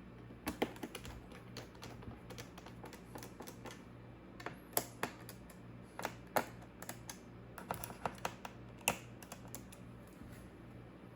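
Typing on a Lenovo Legion Pro 5i laptop keyboard: irregular runs of keystrokes with pauses between them, starting about half a second in and stopping a couple of seconds before the end.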